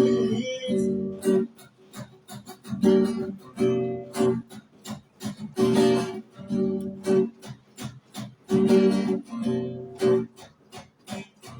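Acoustic guitar strummed in a choppy rhythm: short chords, each cut off quickly, in repeated groups with brief gaps between them.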